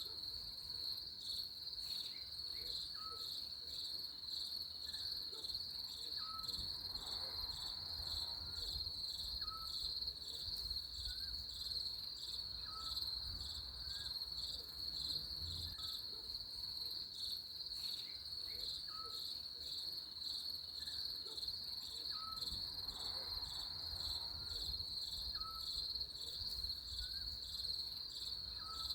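Crickets chirping steadily in a fast, even pulse, with faint short chirps from another creature about once a second.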